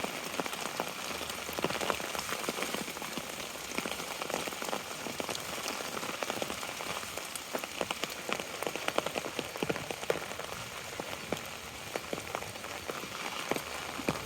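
Steady rain with many close, sharp drop taps, as of rain pattering on an umbrella held over the microphone.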